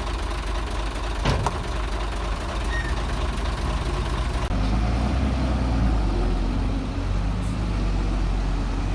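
Diesel engine of heavy construction machinery running steadily, with a sharp knock about a second in. The engine note changes abruptly about four and a half seconds in.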